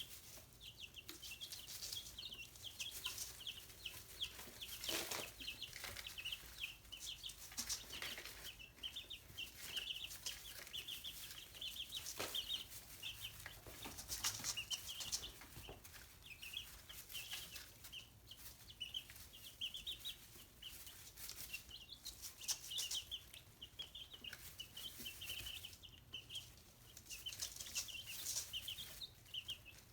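Young chickens peeping continuously in rapid, high, short chirps, with a few scattered taps and rustles.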